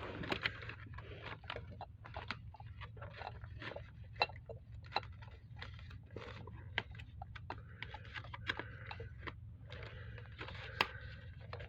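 Irregular small clicks, taps and scrapes of cooking containers and utensils being handled, over a steady low hum.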